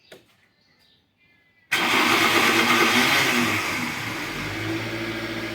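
Toyota Corolla VVT-i 16-valve engine being started: about 1.7 s in the starter cuts in abruptly with a loud, harsh grinding whir, and after a couple of seconds the sound eases into a steadier engine running note. The harsh noise on starting is the ugly noise the owner complains of, which the mechanic puts down to the starter motor.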